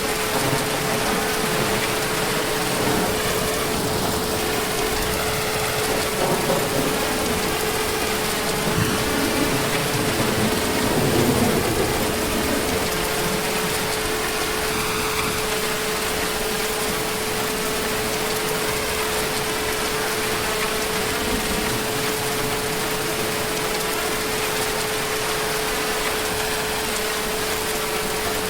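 Heavy rain falling steadily, with a low rumble of distant thunder swelling briefly in the middle. A thin steady hum runs under it.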